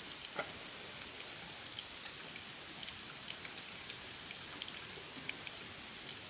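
Light rain falling: a steady hiss with scattered drips, one louder drop about half a second in.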